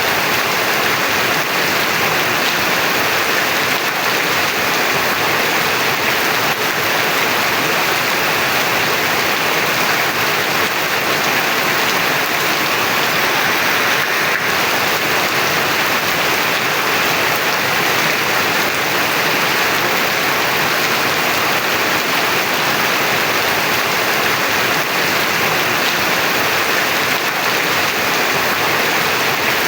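Heavy rain pouring down, a dense, steady hiss without let-up.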